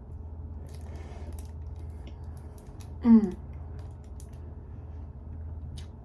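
A woman's short voiced "mm" falling in pitch about three seconds in, made while tasting a snack. Around it are faint light clicks and rustling, over a steady low hum of room noise.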